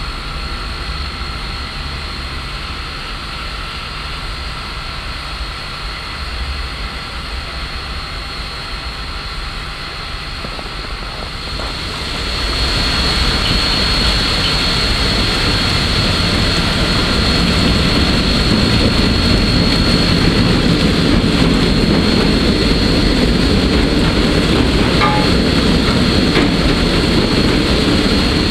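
Steady roar and hiss on the footplate of PKP Ol49-59, a Polish steam locomotive, with a faint high whine running through it. It grows louder and fuller about twelve seconds in.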